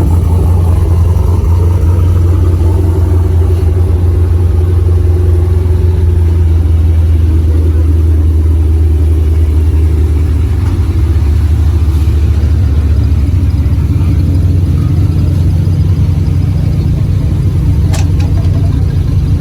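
Car engine and exhaust running with a deep, steady rumble, the low drone shifting slightly about ten seconds in.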